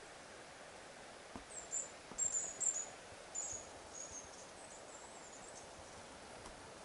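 A bird twittering: a run of short, very high chirps from about a second and a half in to about five and a half seconds, over a faint steady outdoor hiss.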